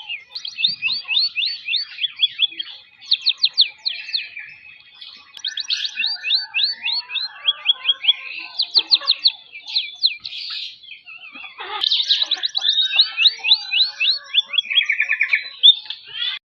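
A caged emprit singing continuously: a fast, varied run of quick repeated chirps and trilled phrases, high-pitched, with short breaks about two and a half seconds in and again near eleven seconds.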